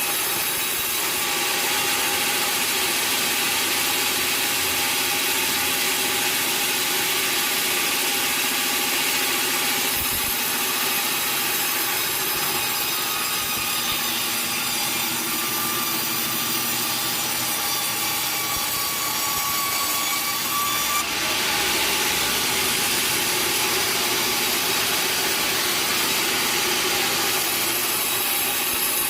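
Sawmill saw running through a log, a steady loud sawing noise with thin high whining tones over it that shift slightly about ten seconds in and again about twenty-one seconds in.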